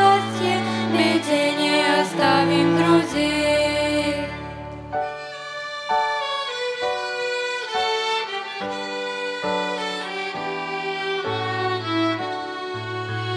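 Children's violin ensemble playing an instrumental passage of the song, a melody of separate bowed notes over low bass notes, fuller for the first few seconds.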